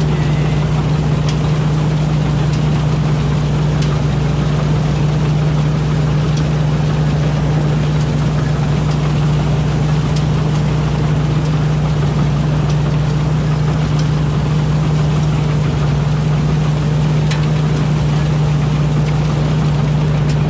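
Rice combine harvester running steadily: a constant engine drone with a strong, even hum and no change in speed.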